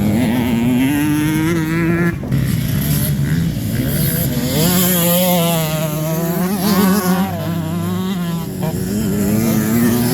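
Motocross bike engines revving as the bikes race on the track, several engines at once, their pitch climbing and dropping as the riders work the throttle.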